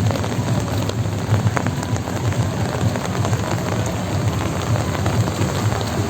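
Heavy rain falling steadily, a dense patter of drops with occasional sharper individual hits.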